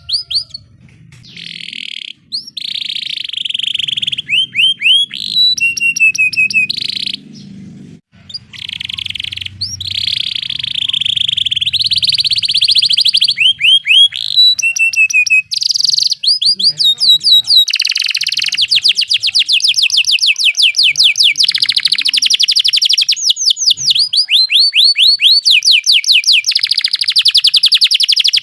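Domestic canary singing its rolling song: bursts of rapid repeated high notes and sweeping chirps, running into long, very fast unbroken trills in the second half.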